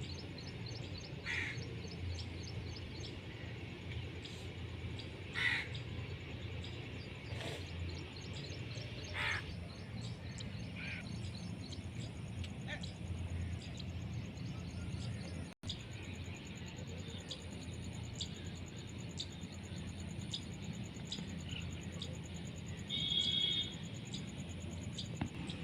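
Birds calling in short, scattered cries every second or two over a steady low hum, with one louder pitched call near the end.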